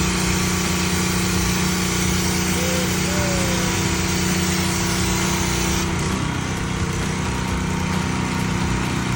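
Gas pressure washer engine running steadily under the hiss of the high-pressure water spray; about six seconds in the spray hiss stops and the engine note shifts as it keeps running.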